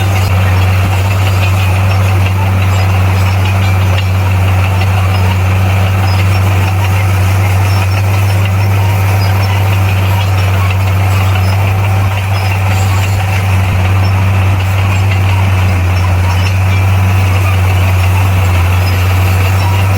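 Bulldozer's diesel engine running steadily, a loud, even low drone that does not change pitch.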